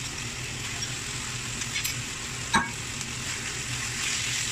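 Chicken, chopped onion, garlic and ginger sizzling in oil in a wok as marinated chicken breast is tipped in. There is one sharp knock about two and a half seconds in, and the sizzling grows louder near the end as a spatula stirs the pan.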